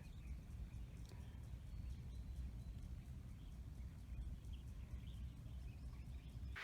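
Quiet ambience: a faint steady low rumble with a few faint, brief high chirps scattered through.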